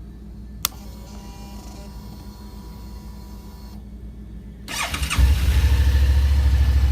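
A click, then a faint whir for about three seconds, then the starter cranks and the 2013 Suzuki Gladius 650's V-twin catches about five seconds in and settles into a steady, pulsing idle through its stock exhaust.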